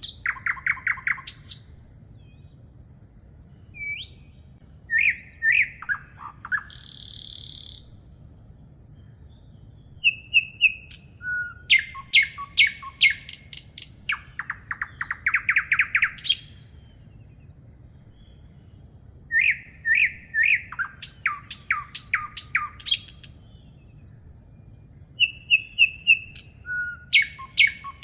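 Birds singing: repeated phrases of rapid chirps and trills every few seconds, with pauses between, over a faint steady low background hum.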